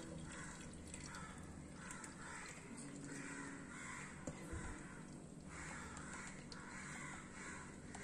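Faint bird calls repeated over and over, about one every half second.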